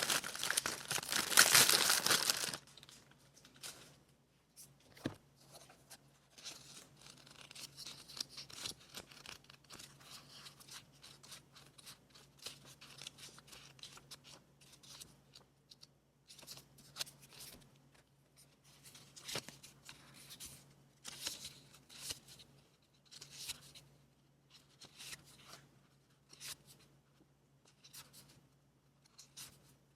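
Paper being torn, loudest for the first two and a half seconds, followed by quieter scattered rustles and clicks of paper being handled.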